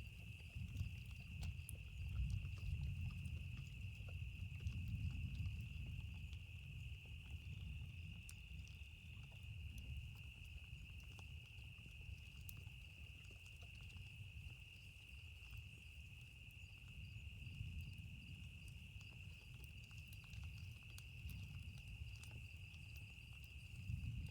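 Campfire crackling with scattered small pops, over a steady high-pitched drone of night insects and a low, swelling rumble of distant thunder.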